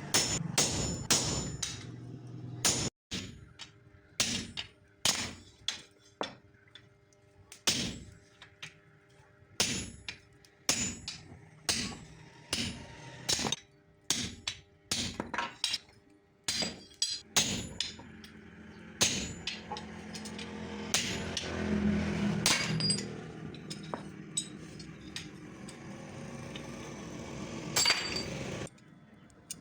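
A hammer striking steel again and again in irregular blows, some with a metallic ring, as the leaf spring stock is worked. A steadier noise swells for a few seconds in the middle.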